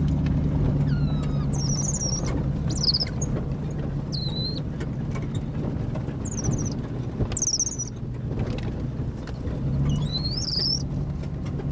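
Young capuchin monkeys giving repeated short, high squeaks and chirps over the steady low hum of a vehicle cabin on the road.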